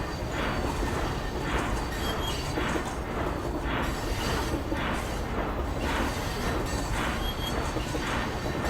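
Small steam locomotive chuffing steadily under way, with an even beat of exhaust chuffs, roughly one and a half to two a second, over a low running rumble.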